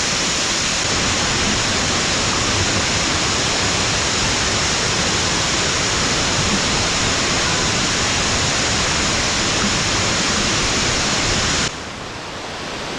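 Waterfall: a steady, loud rush of falling water. Near the end it drops suddenly to a quieter, duller rush.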